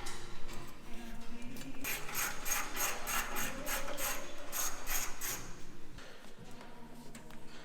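Hand ratchet wrench clicking as it is worked, an even run of clicks about four a second for a few seconds in the middle.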